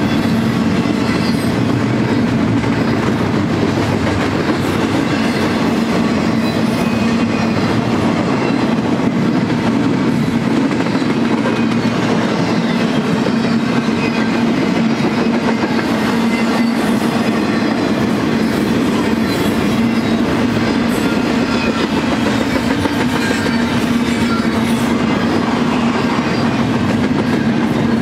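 Double-stack intermodal container well cars rolling past on the rails. The steel wheels give a loud, steady, unbroken rumble with a constant low hum underneath.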